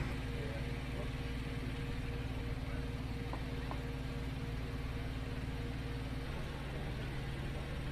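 Steady low mechanical hum like an idling engine; one of its higher tones drops out about six seconds in.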